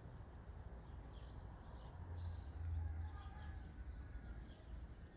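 Small birds chirping on and off over a low, steady rumble that swells briefly about two seconds in.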